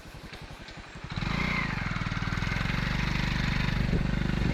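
An engine idling with an even putter, then about a second in it picks up and runs much louder and steadier, building further toward the end as it comes under load.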